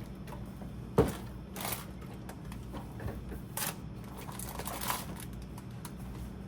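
Groceries being handled and put into a fridge: a sharp knock about a second in, plastic packaging rustling a few times, and another sharp knock at the end, over a low steady hum.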